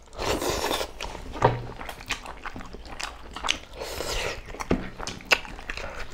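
Two people eating curry and rice with their hands: chewing with scattered small wet clicks and smacks, and fingers squishing food on the plates.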